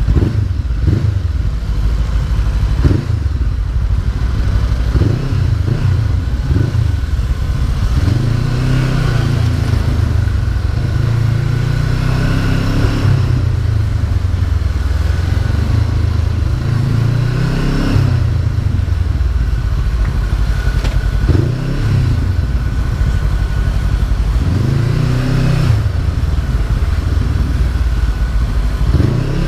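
Honda CB500F parallel-twin engine under way on the road. Its pitch rises and falls repeatedly as the bike accelerates and shifts gear.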